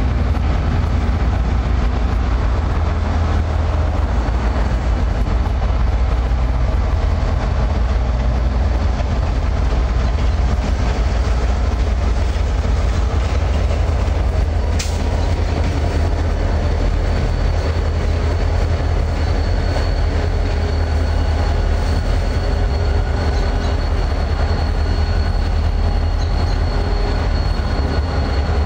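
Freight train passing close by: a steady, loud rumble of wheels on rail, with one sharp clank about halfway and a thin, high wheel squeal that sets in after it and grows stronger near the end.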